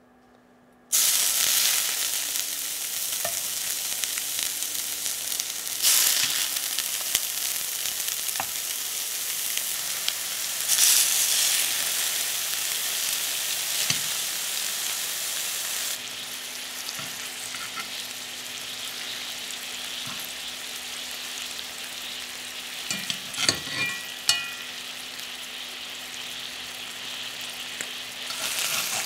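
Beef-and-pork meatballs sizzling in hot olive oil in a cast-iron skillet. The sizzle starts suddenly about a second in and flares up twice. A few sharp metallic clicks, metal tongs against the pan, come about two-thirds of the way through.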